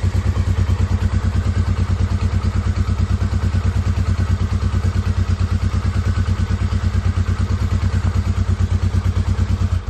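1970 Honda CL350's air-cooled parallel-twin engine running at a steady idle shortly after a cold start, its exhaust pulsing evenly with no revving.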